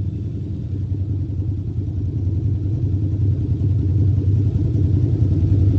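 Motorcycle engine running steadily under way, a low rumble that grows gradually louder.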